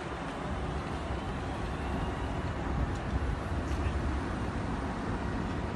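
Electric multiple unit train, an enno Alstom Coradia Continental, pulling into the platform and running past close by. It makes a steady rumble from wheels and running gear, with a faint whine about halfway through.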